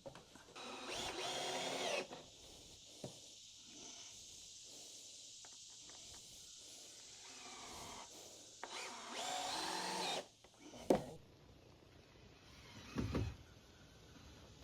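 Power drill driving screws into dock boards: two runs of the drill motor, one near the start and one past the middle, with a sharp click and a low knock near the end.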